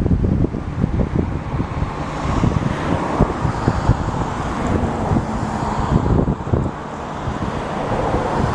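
Jet engines of a three-engined airliner, a loud low rumble with crackle, mixed with wind buffeting the microphone.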